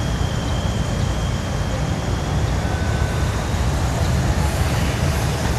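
Steady low rumble of an idling diesel locomotive engine, with a faint thin high whine above it.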